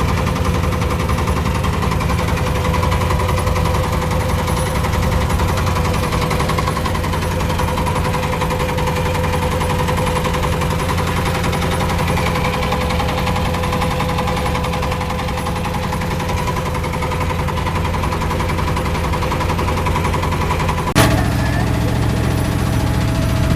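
Small boat engine running steadily, a rapid even chugging with a low rumble and a steady hum.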